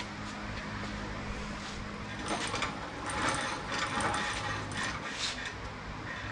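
Light metallic clinks, scrapes and rustling of tools and small metal parts being handled, busiest in the middle, over a steady low hum.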